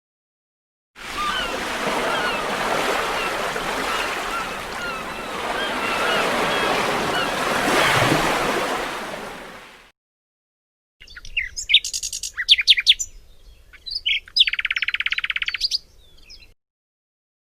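Two bird sound-effect clips. First comes about nine seconds of many small birds chirping over a steady rushing background noise, fading out. After a short gap, a few seconds of loud, sharp single bird calls follow, including a rapid even trill near the end.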